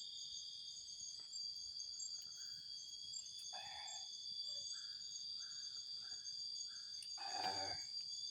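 A steady, high-pitched chorus of night insects chirring without a break. A few short calls come through it in the middle, and a louder, brief pitched sound comes near the end.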